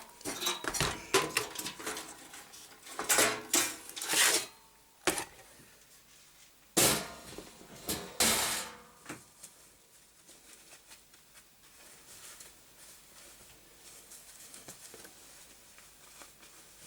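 Metal computer parts being handled, with a string of sharp knocks and clinks over the first half, then only faint handling noise.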